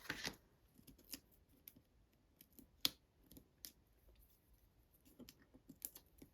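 Faint scattered clicks and small paper crackles from cardstock and foam dimensional adhesives being handled and pressed into place, the sharpest click about three seconds in.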